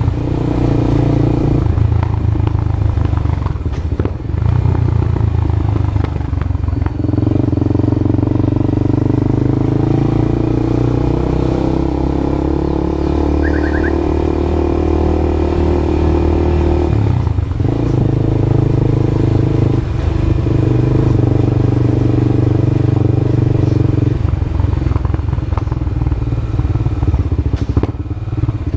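Honda CB Twister single-cylinder motorcycle engine running loudly through a new aftermarket exhaust. The engine note holds steady in stretches and shifts in pitch several times.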